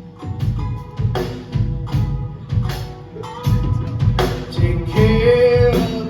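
Live folk-rock band playing an instrumental passage: drum kit keeping a steady beat under guitars, with a held lead note near the end.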